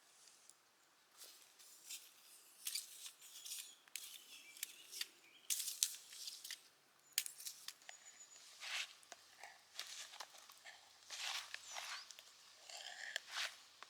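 A series of short, irregular rustling and scraping sounds, coming more densely in the second half.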